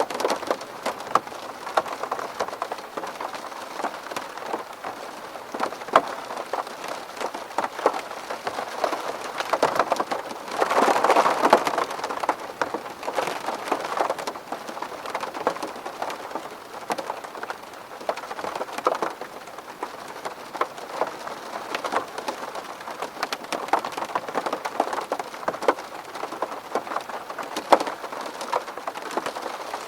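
Rain falling on a window pane: a steady patter with many individual drops tapping sharply, and a louder, heavier spell of rain lasting a couple of seconds about a third of the way through.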